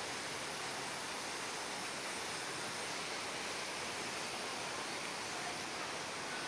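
A waterfall about 45 m high crashing down into a small pool, a steady unbroken rush of falling water.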